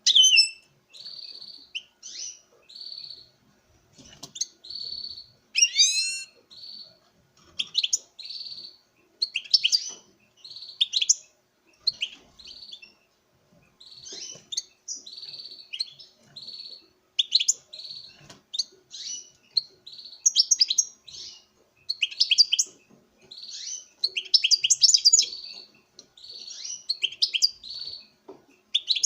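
Male European goldfinch singing its courtship song to a female: a long run of rapid twittering phrases mixed with short buzzy notes, with brief pauses between phrases.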